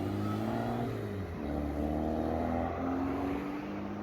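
A car engine accelerating away, its revs dipping about a second in and then climbing steadily again.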